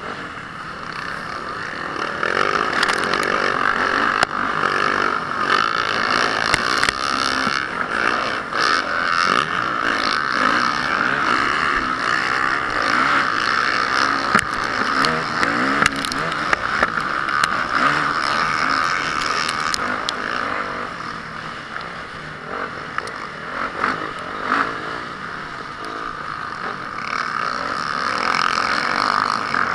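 Honda CRF450R single-cylinder four-stroke motocross engine running hard under race load, the throttle rising and falling, with scattered clatter and clicks. It eases off for a few seconds past the middle, then picks up again near the end.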